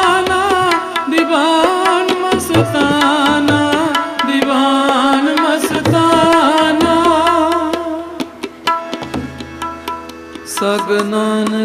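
Raag-based Sikh kirtan music: tabla strokes under a melodic line that bends and wavers in pitch. The music thins about eight seconds in, and a steady held chord enters near the end.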